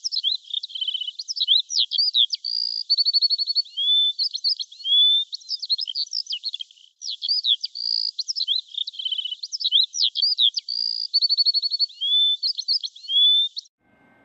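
Songbird singing: a varied, rapid string of chirps, whistles and trills, the same phrase of about seven seconds heard twice over, cutting off abruptly near the end.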